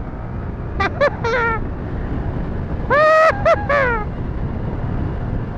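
Yamaha R15 motorcycle being ridden at speed: constant rush of wind and road noise with the engine underneath. A person's voice breaks in briefly about a second in and again, louder, around three seconds in.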